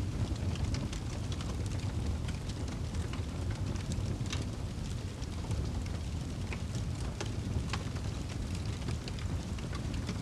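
Wood fire crackling, with scattered sharp pops, over a steady low rumble.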